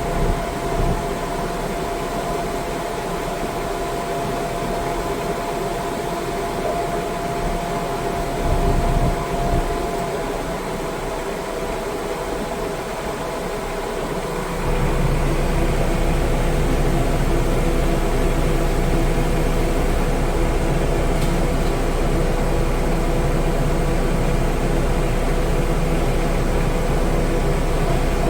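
An engine running steadily with a constant hum, becoming louder and heavier about halfway through.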